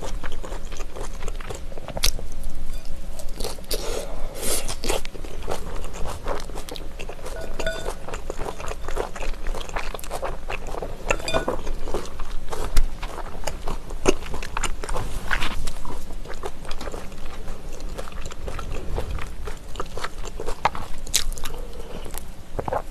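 Close-miked chewing of a mouthful of raw trout sashimi mixed with vegetables, with irregular crunching and clicking sounds.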